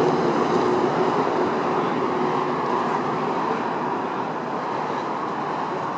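Steady engine and machinery noise with a faint humming tone that fades out about two and a half seconds in.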